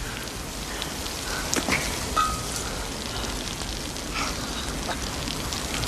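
Steady rain falling, with scattered drips and small knocks.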